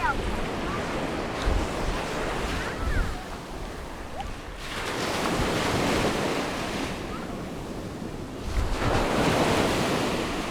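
Sea waves washing onto a sandy beach, two surges building and fading about five and nine seconds in, with wind buffeting the microphone.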